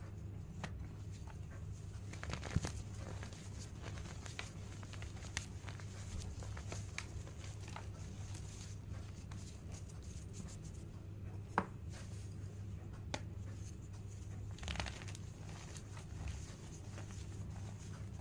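Homemade blackboard chalk crunching and crumbling, with scattered crisp crackles and a few sharper snaps, the loudest about two and a half seconds in and near the middle, over a steady low hum.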